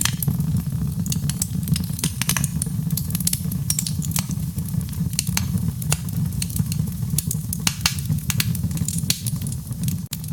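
Wood fire burning, with a steady low rumble and many sharp, irregular crackles and pops.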